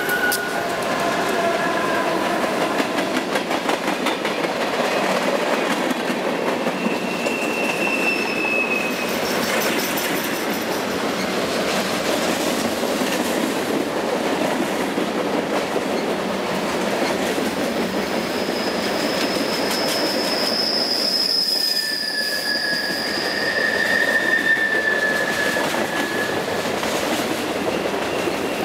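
Freight cars of a CSX train rolling past on a curve: a steady clatter of steel wheels on rail, with brief high-pitched wheel squeals now and then, the longest two of them overlapping about two-thirds of the way through.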